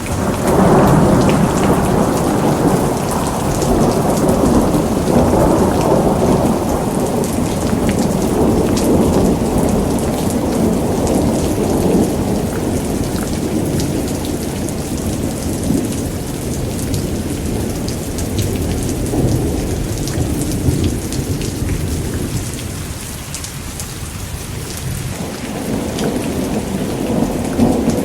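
Thunderstorm: steady rain with fine drop patter and low rolling thunder. The rumble is heaviest in the first half, dies away about three-quarters of the way through, and builds again near the end.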